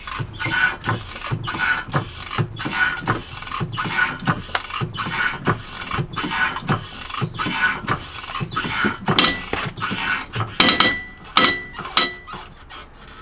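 Series of sharp mechanical clicks, about two or three a second, from hand work on a car, with a few louder clicks and a short metallic ring a little after ten seconds in.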